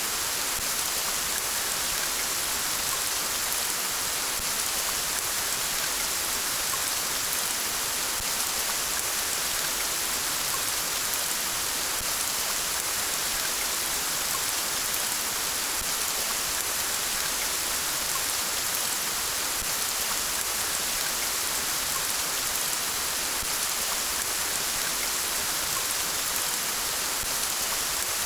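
Steady rain falling, an even hiss of drops on surfaces with no let-up or thunder.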